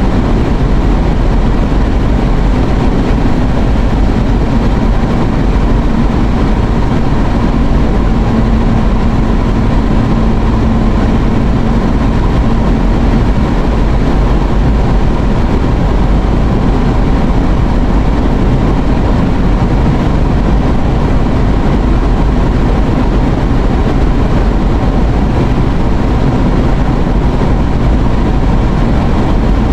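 Steady road and engine noise inside a moving car's cabin, with a faint steady hum for several seconds in the first half.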